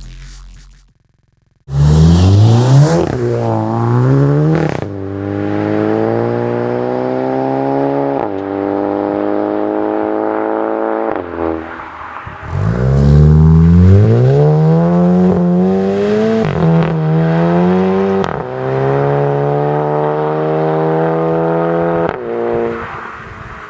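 Volkswagen Golf 7 GTI's turbocharged four-cylinder petrol engine, through a Bull-X EGO-X aftermarket exhaust with valve, starting suddenly and then revved several times: the pitch climbs and falls, is held steady at raised revs for a few seconds at a time, and rises sharply again about halfway through.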